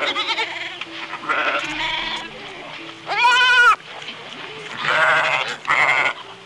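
Goat bleating several times, each bleat a wavering, quavering call; the loudest and longest comes about three seconds in.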